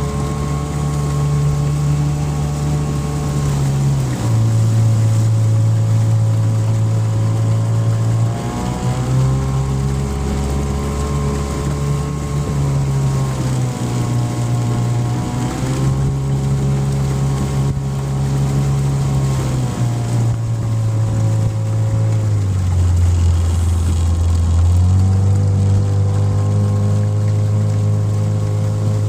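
A motorboat's outboard engine running under way, its pitch stepping up and down every few seconds as the throttle changes.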